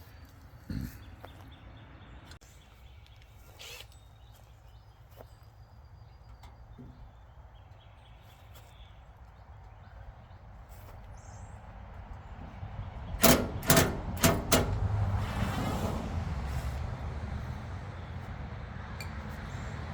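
Handling noises from taking the front cover off a tankless RV water heater: a few faint clicks, then a quick run of four sharp knocks about two-thirds of the way in, followed by steady rustling and rumbling.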